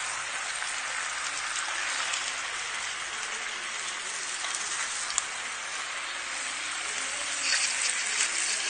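Chicken pieces sizzling as they brown in olive and vegetable oil in a clay tajine, a steady crackling hiss with a few faint clicks as the pieces are turned.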